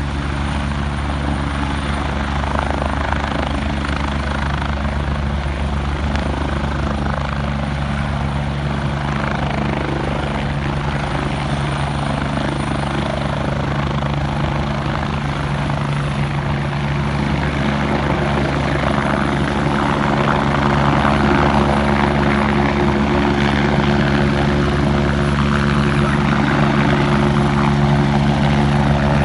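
Medical helicopter's rotor and turbine engine running steadily, with a low, even rotor tone under a dense whooshing noise. It grows somewhat louder about two-thirds of the way through.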